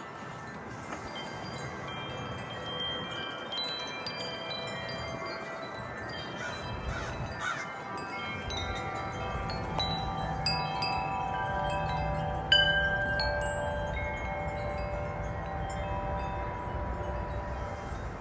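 Wind chimes ringing in the wind, struck at irregular moments, their notes sustaining and overlapping, with one sharp louder strike about twelve seconds in. Wind rumbles on the microphone through the second half.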